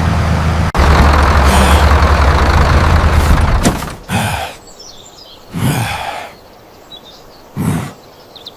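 A tractor engine running steadily with a low drone, fading out about three and a half seconds in. After that, only three short separate sounds break a much quieter background.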